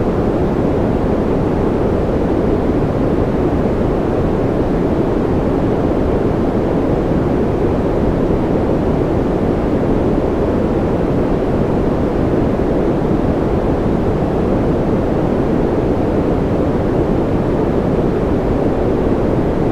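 Steady, unchanging white noise made for sleep, with its weight in the low and middle range so that it sounds like a deep, even rush rather than a bright hiss.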